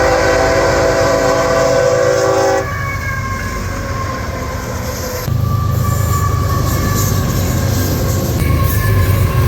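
Freight locomotive horn sounding a loud steady chord for about two and a half seconds. After it, the heavy low rumble of the diesel locomotive and the train rolling past, growing louder about halfway through.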